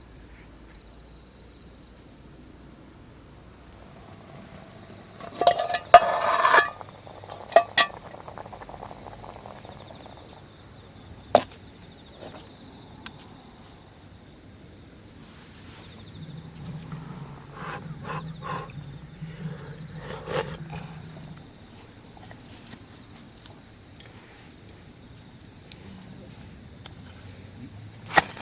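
Insects chirring in a steady, high, continuous tone, with a few sharp clicks and knocks of gear being handled over it.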